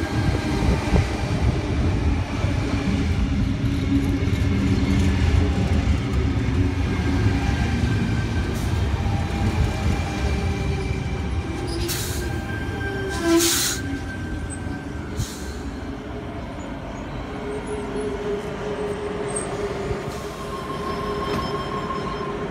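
A Sydney Trains Tangara electric multiple unit running in along the platform with a heavy low rumble and steady whining tones, easing off a little past halfway as it comes to a stand. Two short hisses follow, then a quieter steady hum from the stopped train.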